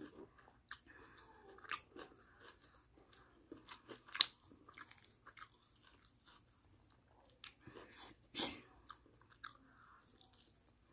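Close-up chewing and biting of barbecued chicken and rice, a string of irregular short mouth clicks and crunches, the sharpest about four seconds in and another cluster about eight seconds in.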